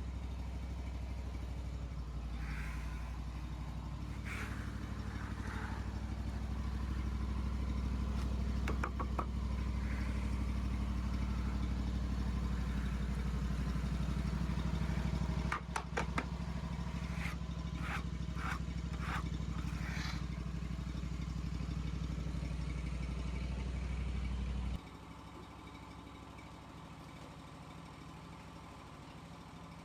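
An engine runs steadily with a low drone, and a few metallic clanks sound partway through. About 25 s in it drops suddenly to a quieter, lower-level running.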